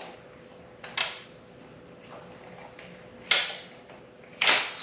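Three sharp metallic clinks from hand tools and metal parts being handled, the last one the loudest, over a faint steady hum.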